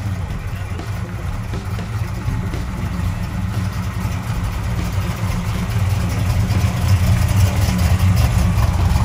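A car engine idling with a steady low note, getting louder over the last few seconds.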